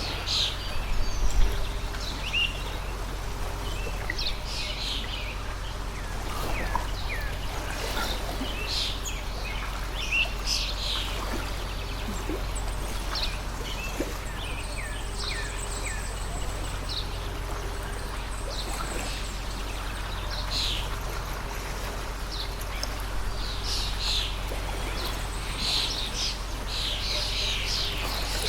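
A stream of water flowing steadily, with many small birds chirping and calling over it in short, repeated notes. A brief low thump comes about a second in.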